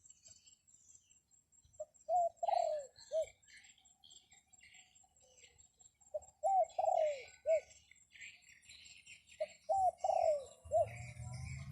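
A wild bird calling three times, about four seconds apart, each call a short phrase of a few swooping notes with one longer falling note, with faint higher chirps behind it.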